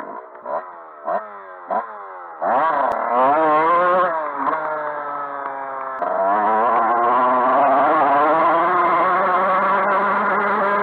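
Dirt bike engine blipped several times in quick short bursts, then revved up and down, then running on at a steady speed, louder, from about halfway through.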